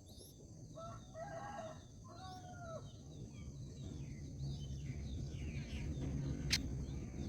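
A rooster crows once in the distance, about a second in: a held note, then a shorter falling one. Small birds chirp around it, and a steady high insect whine runs under it. A single sharp click comes near the end.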